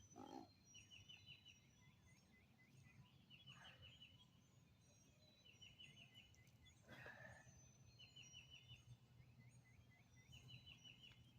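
Faint birdsong: a songbird repeats a short phrase of quick, high notes about every two and a half seconds, with other birds chirping faintly. A few brief soft rustles come in between the phrases.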